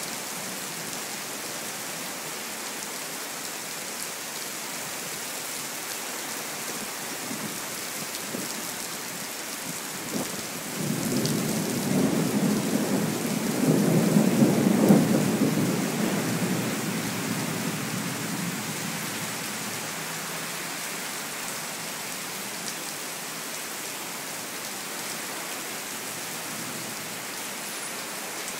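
Steady rain with a roll of thunder that builds about ten seconds in, peaks around halfway through, and rumbles away over the next several seconds.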